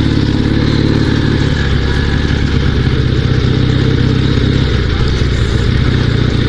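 Dnepr 16 sidecar motorcycle's flat-twin engine running steadily as the bike pulls through deep sand.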